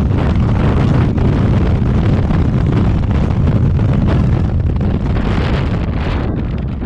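Loud wind roar buffeting the microphone of a camera on a moving motorcycle, heaviest in the low end, with the motorcycle's running noise blended in.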